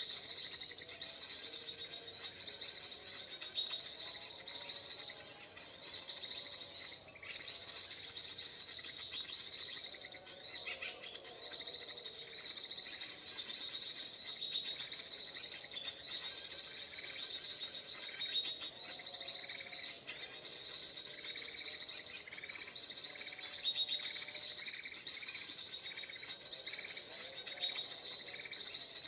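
Bulbul calls (kutilang emas), a dense stream of rapid, repeating high chirps without pause, played from an MP3 recording as a trapping lure.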